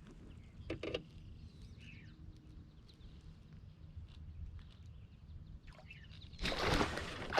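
Quiet pond air with a faint bird chirp and a light knock about a second in. Near the end, loud water splashing starts: a northern pike thrashing at the surface.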